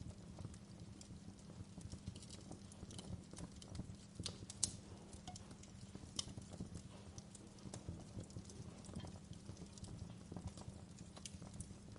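Fireplace fire crackling: irregular sharp pops and snaps over a low steady rumble, with one louder pop about four and a half seconds in.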